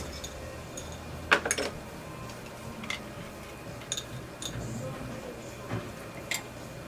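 Metal dental instruments clicking and clinking, sharp separate clicks about a second apart, loudest as a quick pair about a second and a half in.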